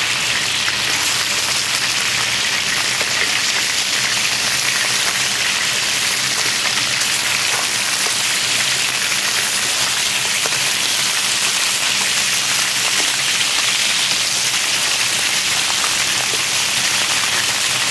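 Chicken pieces sizzling steadily in hot vegetable oil in a wide paella pan, with a few faint clicks of metal tongs against the pan as the pieces are turned.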